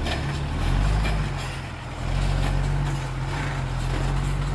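Heavy diesel engine of earthmoving machinery running steadily, easing off briefly about a second and a half in, then picking up again.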